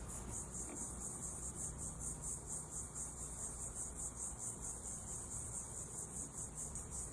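Crickets chirping: a faint, high, evenly pulsing trill.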